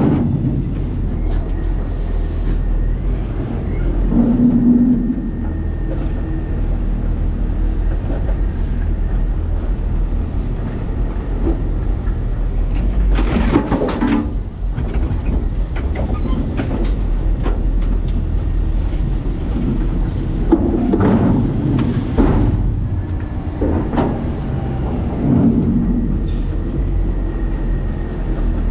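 Side-loading garbage truck with a New Way Sidewinder body, heard from inside its hopper: a steady low engine rumble with constant rattling. Clusters of loud clunks come about halfway through and again later on.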